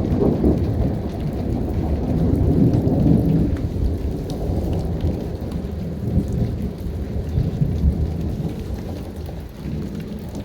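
Continuous rolling thunder from a storm directly overhead, rumbling without a break. It swells about two to three seconds in and slowly eases toward the end, with steady rain falling underneath.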